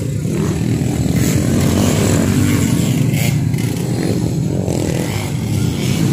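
Motocross dirt bike engines running loud and continuously, with the pitch shifting as the riders work the throttle.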